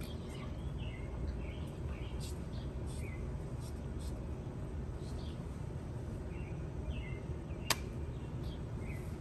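Birds chirping in short, scattered calls over a steady low background rumble, with one sharp click about three-quarters of the way through.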